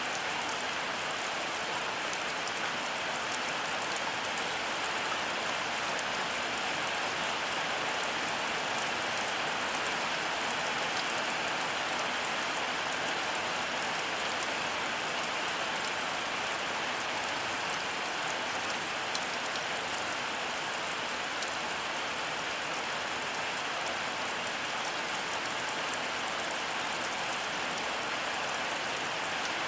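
Heavy rain falling steadily: a dense, even hiss with fine scattered drop ticks, and no thunder.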